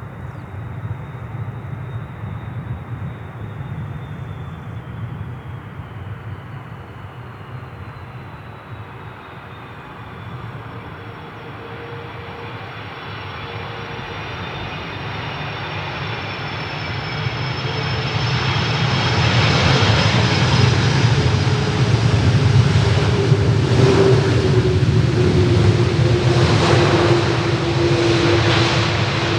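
Jet airliner's engines passing close by: a whine with several tones that slide slowly down in pitch while the noise grows much louder about two-thirds of the way through.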